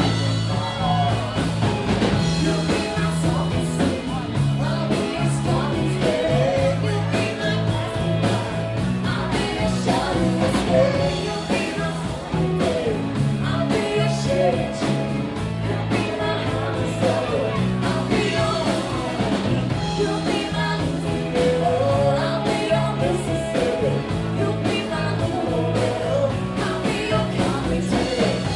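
Rock band playing a song with a sung lead vocal over a steady bass line.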